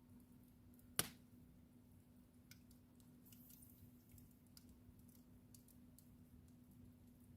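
Wood fire in a fireplace crackling faintly with scattered small pops, and one sharp, loud pop about a second in. A steady low hum runs underneath.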